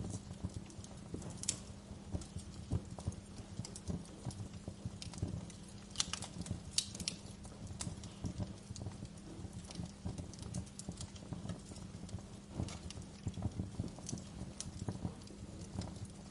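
Wood fire crackling in a fireplace: irregular pops and snaps, with a few sharper snaps about six to seven seconds in, over a low steady rumble.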